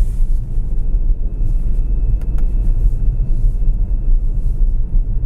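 Steady low rumble of tire and road noise inside the cabin of a Tesla Model S electric car, its snow tires running through snow on a freeway at about 50 mph. A faint high steady whine comes in about a second in.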